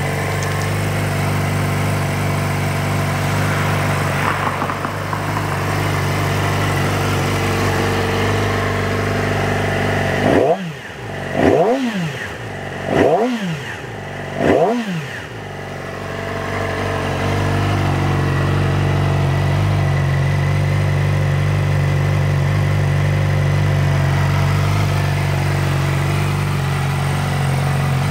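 Yamaha YZF-R6's four-cylinder engine idling, blipped four times in quick succession about halfway through, each rev rising sharply and dropping straight back to a steady idle. The bike is stationary, so the engine revs with no load.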